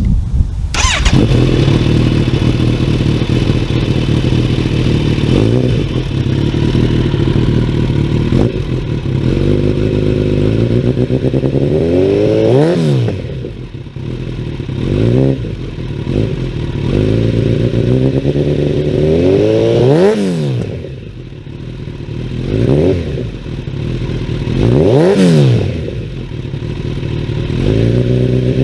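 2021 Kawasaki Ninja 1000SX inline-four running through Black Widow stainless headers and a LeoVince end muffler, idling and being blipped again and again. Each rev rises and falls quickly, and the three highest come in the second half.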